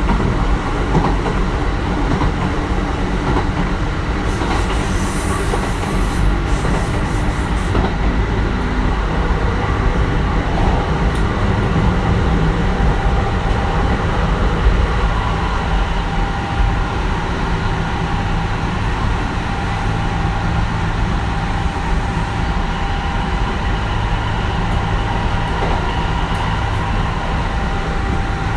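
Kintetsu 1420 series electric train running, heard aboard: steady wheel-on-rail rumble with the faint tones of its Mitsubishi GTO-VVVF inverter and traction motors. A brief high hiss comes about five seconds in.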